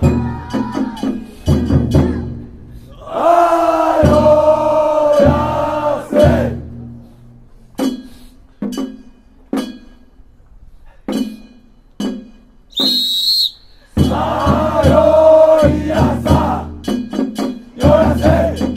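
Men's voices singing a Nagasaki Kunchi funauta (boat song) in long held phrases, with sharp percussion strikes in the gaps between phrases and a brief high piping tone about thirteen seconds in.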